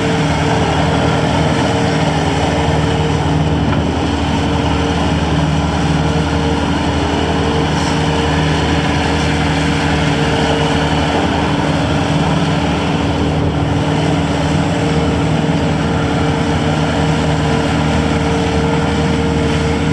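Bobcat S530 skid steer loader's diesel engine running at a steady speed, a constant loud drone with no revving.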